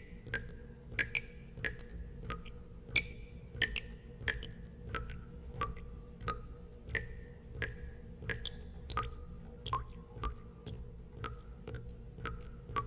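Water drops falling into water, about two a second at uneven spacing. Each is a sharp click with a short ringing plink at a varying pitch, over a low steady hum.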